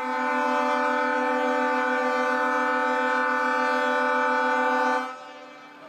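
A single long horn blast at one steady pitch with strong overtones, held about five seconds and then cut off.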